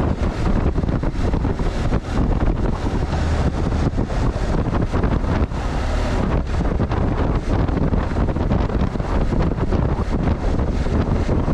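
Wind buffeting a GoPro's microphone during a ride: a loud, steady rumbling rush with fast flutter, over the vehicle's running noise.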